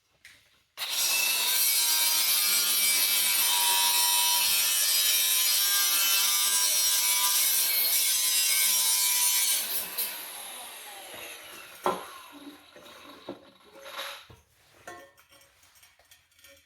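Power tool cutting through a 3-inch exhaust pipe. It gives a loud, steady cutting noise for about nine seconds, then the tool winds down and a couple of sharp metal knocks follow.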